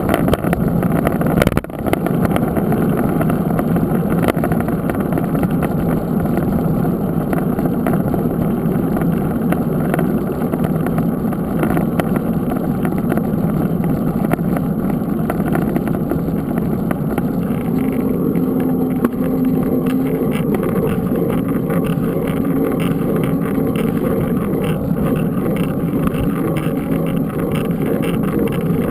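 Steady, loud low rumbling noise with a brief dip about one and a half seconds in.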